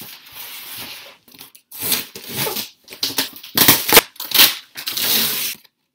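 A large cardboard box being torn open: a series of rasping tearing and rustling noises from the packing tape and cardboard flaps, with a few sharp knocks about halfway through.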